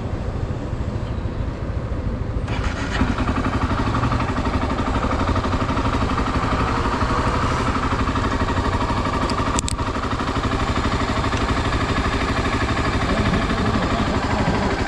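Honda XR 250 Tornado's single-cylinder four-stroke engine running under way, mixed with wind noise on the microphone. The sound grows brighter about two and a half seconds in, and there is one sharp click about two-thirds of the way through.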